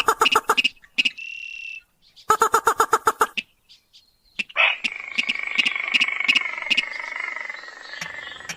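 Rail or crake calls played from a bird-lure recording: two short bursts of rapid repeated notes with a brief whistle between them, then a longer, drawn-out call from about halfway through.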